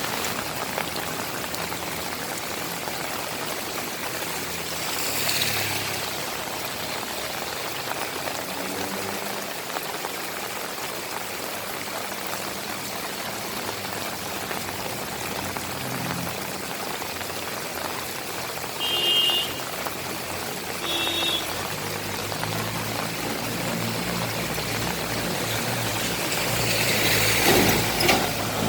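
Steady rain falling, a continuous hiss of rain and running water. It swells louder about five seconds in and again near the end, and two brief high-pitched tones sound a couple of seconds apart about two-thirds of the way through.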